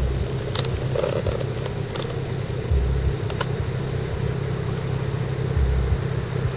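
BMW 335i turbocharged straight-six running on its stock exhaust: a steady low idle with a deeper swell about every three seconds.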